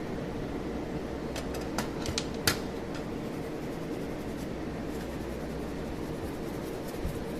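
SZ-GCS03 PLUS cold welding machine welding galvanized sheet, a steady buzzing hum. A few sharp clicks come about one and a half to two and a half seconds in.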